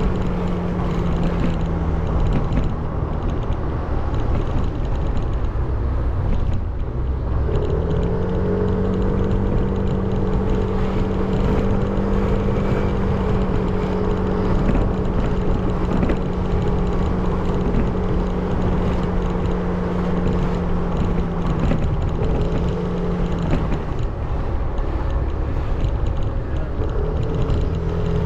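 A 300 cc motorbike engine running at a steady cruising speed under a constant rush of wind on the microphone. The engine note fades out for a few seconds twice, about two seconds in and again near the end, then comes back steady.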